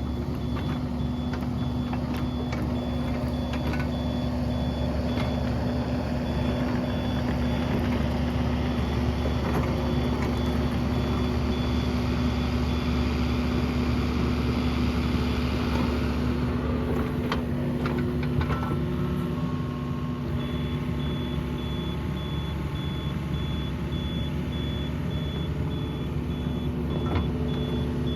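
Yanmar mini excavator's diesel engine running steadily while its travel alarm beeps over and over as the machine tracks. The beeping stops for a few seconds about halfway through, when a few knocks are heard, then starts again.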